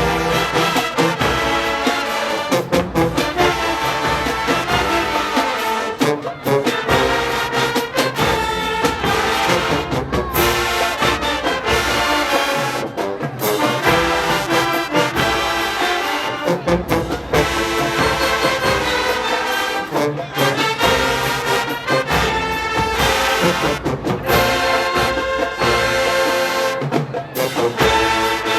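HBCU show-style marching band playing a brass-heavy tune with trombones, trumpets and drums, loud and rhythmic.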